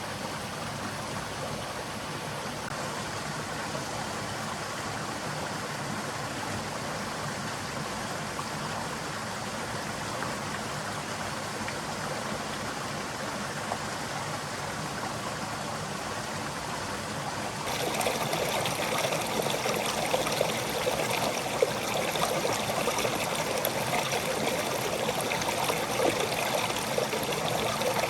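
Forest stream running steadily over rocks, an even rushing of water. About two-thirds of the way through it jumps suddenly louder and brighter.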